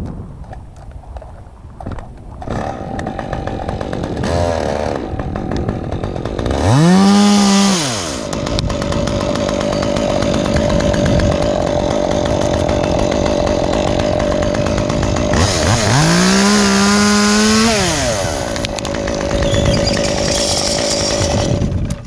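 Stihl chainsaw revved briefly up to full throttle and back down twice, about seven seconds in and again around sixteen seconds. A steady high engine tone runs between and after the revs.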